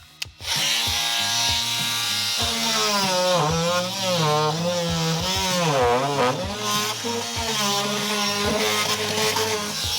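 Electric oscillating multi-tool cutting through the plastic of an AdBlue tank and its internal reinforcement ribs. It starts about half a second in, and its buzzing pitch wavers up and down in the middle as the blade bites and frees, then runs steady again.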